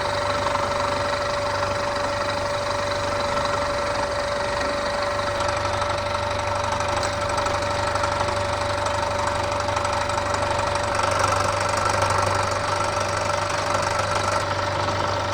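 Bridgeport milling machine running with its end mill cutting into the metal base block: a steady machining noise with a constant mid-pitched whine and a low hum, as the cut is taken deeper.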